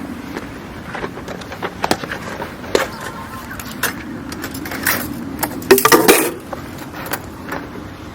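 Scattered sharp clicks and knocks of objects being handled, with a louder cluster of rattling clicks about six seconds in, over a steady low background rumble.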